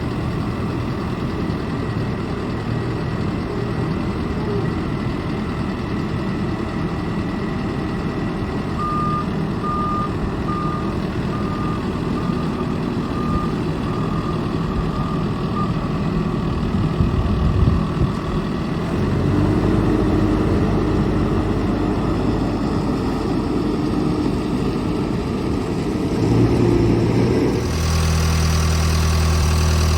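John Deere 410K backhoe loader's 4.5L diesel engine running, with a reversing alarm beeping evenly for several seconds partway through. Near the end the sound changes abruptly to a steady idle.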